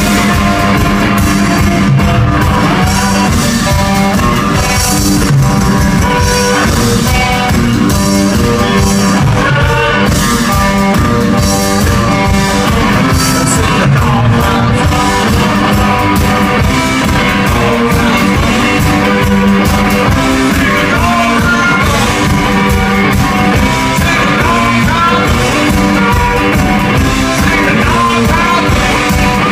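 Live blues boogie played loud on guitar with a driving beat, the band vamping on the song's riff.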